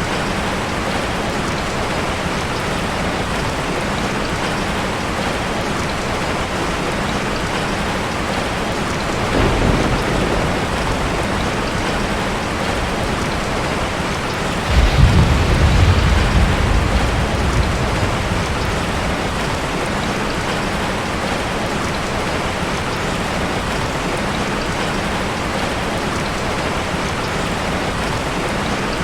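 Heavy rain falling steadily, with thunder: a faint low rumble about a third of the way in, then a louder clap near the middle that rolls and fades over a few seconds.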